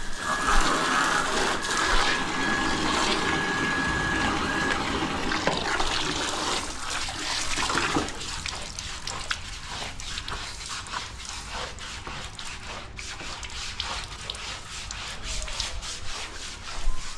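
Water splashing and rubbing as a motorcycle is washed by hand, with many small clicks and scrubbing noises. A steady high whine runs through the first few seconds and stops.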